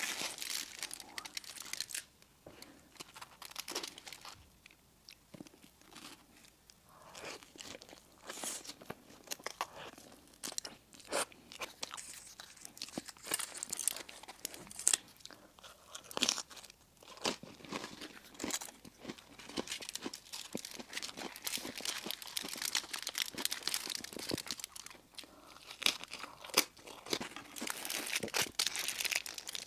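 Close-miked eating of crisp pastry sweets: irregular crunching bites and chewing, with dense crackling crunches, quieter for a few seconds early and busier in the second half.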